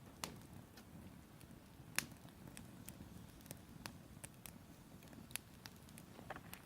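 Campfire wood crackling faintly, with irregular sharp pops, the loudest about two seconds in.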